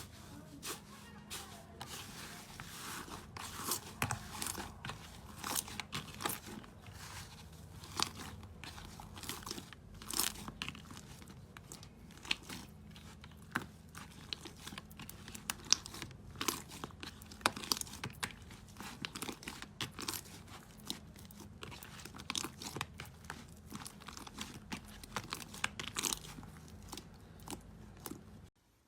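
Slime being squished and pressed, giving irregular sharp crackling pops and crunches over a faint steady low hum. It cuts off suddenly near the end.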